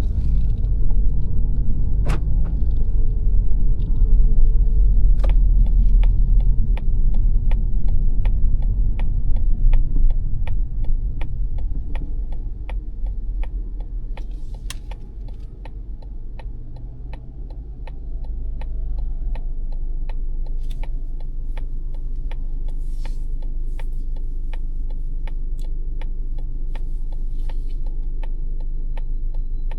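Turn-signal indicator ticking steadily, about twice a second, inside a 2022 Mazda 3's cabin over low road rumble. Partway through, the rumble fades to a steady low hum, as when the car slows and waits.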